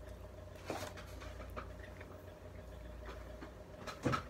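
Faint mouth and chewing sounds of a person eating a bacon cheeseburger: a few soft smacks and clicks, then a short breathy hum near the end, over a steady low room hum.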